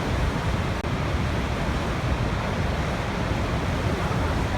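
Waterfall, falling water rushing steadily, with a momentary dropout in the sound just under a second in.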